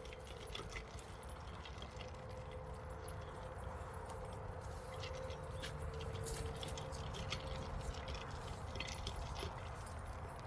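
Quiet walking sounds on a dog walk: scattered light jingles and ticks, such as dog collar tags and a leash make, over a low rumble, with a faint steady hum throughout.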